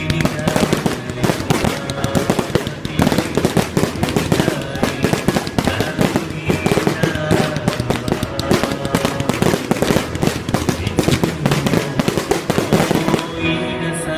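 Fireworks going off in a rapid, dense run of bangs and crackles, many a second, over music. The bursts die away about a second before the end, leaving the music playing on its own.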